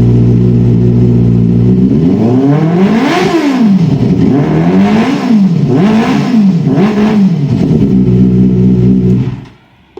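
Benelli TNT 600i inline-four motorcycle engine breathing through an aftermarket Ixil exhaust, loud: it idles steadily, is revved in four throttle blips (the first the longest and highest), settles back to idle and is switched off about nine seconds in.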